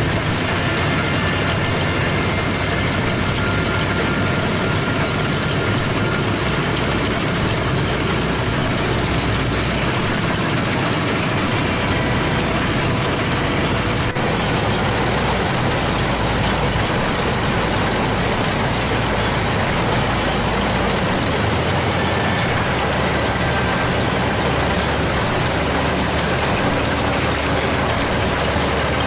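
Maxxi Bimo combine harvester running steadily, a loud, even mechanical din of engine and machinery.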